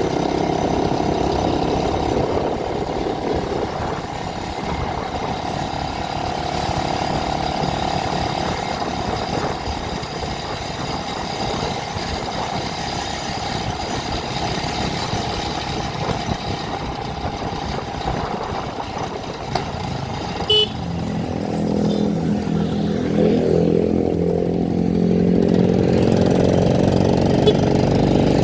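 A vehicle engine runs steadily while driving on a road. About three-quarters of the way through, its note becomes clearer and louder, with a brief click just before.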